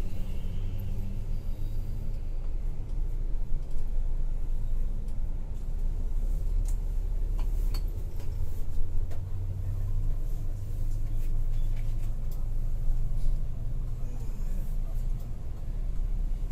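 Steady low drone of a Scania K410iB tri-axle coach cruising at speed, engine and road rumble heard from inside the cabin, with a few faint rattles.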